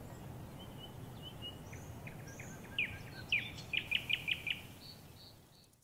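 Small birds chirping over a soft outdoor hiss, with scattered short calls and then a quick run of about six sharp notes, before the sound fades out near the end.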